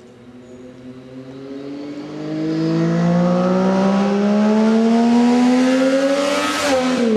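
Triumph Daytona 675's inline three-cylinder engine through a Bodis Q1 exhaust, accelerating hard toward the microphone with the engine note rising steadily and growing much louder. It passes close near the end, where the pitch drops sharply.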